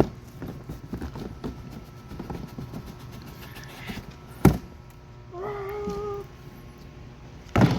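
Unboxing of a large RC motorcycle box: packaging handled, with a sharp thunk about four and a half seconds in and another near the end. In between, a held pitched call lasting about a second.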